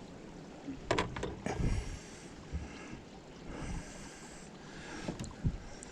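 Scattered knocks and bumps in a small fishing boat, three or four of them, with a soft hiss between.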